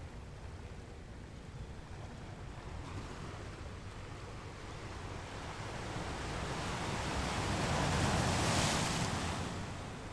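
Ocean waves washing onto a shore: a steady hiss of surf that swells over several seconds to a breaking wave about eight to nine seconds in, then ebbs away.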